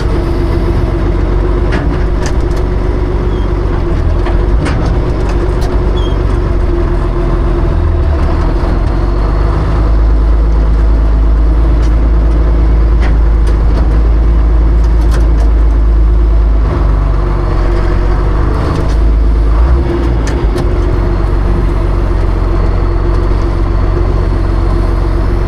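A John Deere tractor's engine running steadily under load while plowing snow, with a few sharp clanks scattered through.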